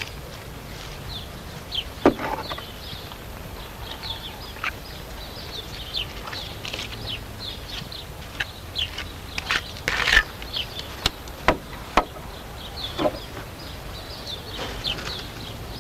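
Small birds chirping over and over in short high calls, with scattered sharp knocks and taps, the loudest about two seconds in and again around ten to twelve seconds in.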